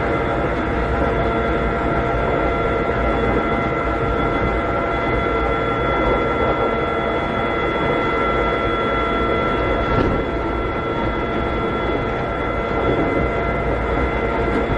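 Interior running sound of a Keikyu 600 series (2nd generation) electric railcar with Toyo Denki electrical equipment, cruising at a steady speed: a low rumble under several steady whining tones. A single sharp rail-joint click comes about ten seconds in.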